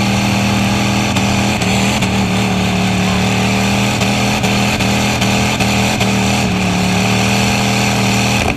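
Truck engine running at high, steady revs with small dips in pitch. The sound cuts off abruptly at the end.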